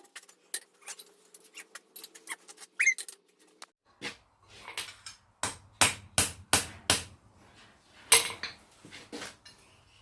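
Hammer and steel striking on the anvil while a hot tong blank is reworked: light, scattered knocks and clinks at first, then a run of five hard ringing blows at about three a second, and two more near the end. A low steady hum comes in about four seconds in.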